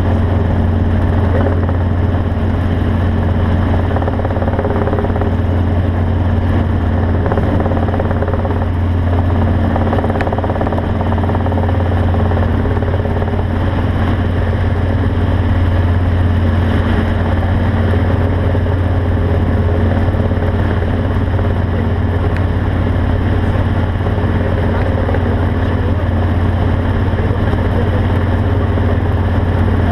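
A vehicle engine running steadily: a constant low drone with a wash of noise over it, with no change in speed.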